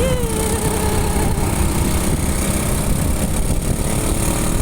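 Motorcycle engine running steadily with road and wind noise, heard from the rider's own bike. A thin wavering tone falls in pitch during the first second.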